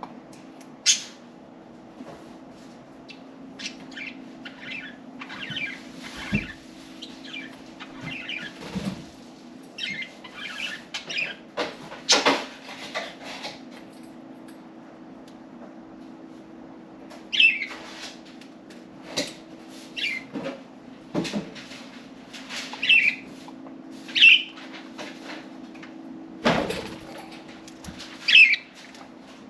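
Pet budgerigars chirping in short, scattered calls, with wing flutters and a few sharp knocks, over a steady low hum.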